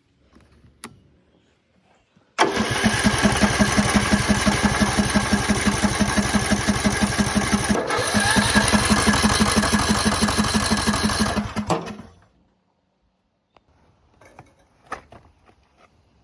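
A lawn tractor's engine is cranked by its electric starter, run off a jump box, with the choke on. It turns over in an even, rapid chug for about nine seconds, with a brief break near the middle, then stops without firing.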